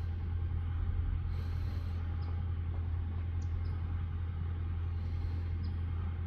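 Steady low rumble, with a few brief faint high chirps scattered through it.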